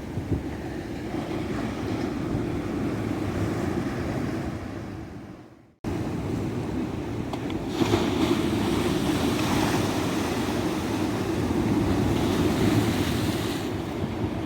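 Ocean surf washing steadily onto a beach. About five seconds in it fades away and cuts back in abruptly, and a couple of seconds later a wave breaks and the wash runs louder.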